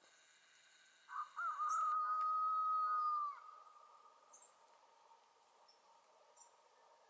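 A single long whistled note of about two seconds, wavering as it starts, then held steady, and sliding down as it ends. A few faint short bird chirps follow over a steady background hiss.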